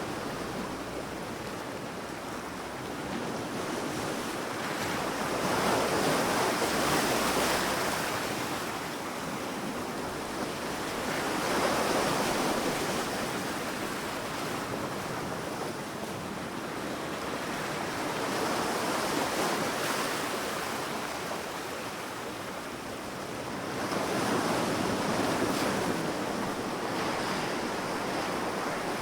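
Sea waves breaking and washing up on a sandy beach. The surf swells and eases about every six seconds.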